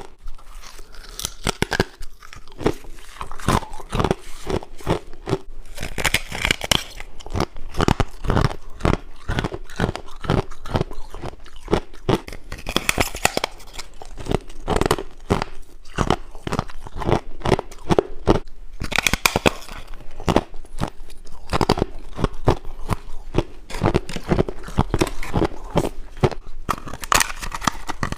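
A person biting and chewing frost ice, with close, irregular crunching and crackling that goes on steadily in quick bursts.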